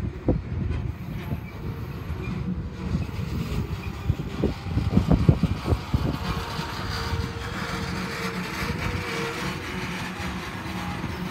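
Double-stack container train's well cars rolling past on the rails: a steady rumble of wheels on track, with a run of clunks about halfway through.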